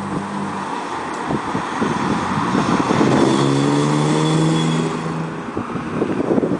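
1999 BMW E36 M3's straight-six exhaust, through headers, a straight-through midpipe and a MagnaFlow system. The note climbs in pitch as the engine revs up about two and a half seconds in, holds steady at its loudest for about two seconds, then dies away near the end.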